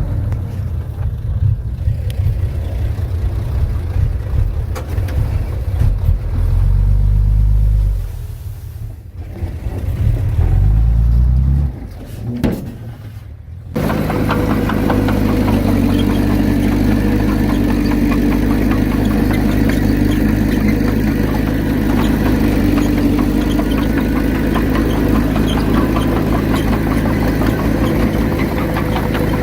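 Diesel engine of heavy earthmoving machinery working, its pitch rising and falling in the first half. About 14 seconds in the sound changes abruptly to a steady, even engine run.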